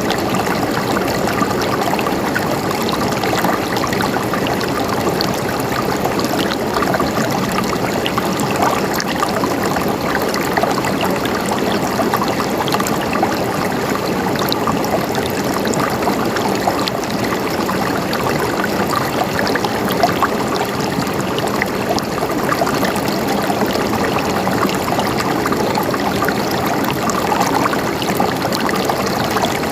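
Water flowing and trickling steadily in a stream, a continuous babbling rush with small splashes and gurgles throughout.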